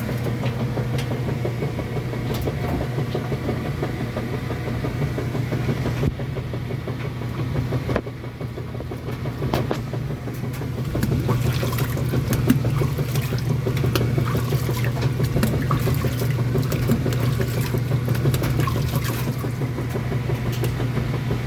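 Kenmore washing machine running: a steady low hum with a haze of water noise and scattered light clicks and knocks.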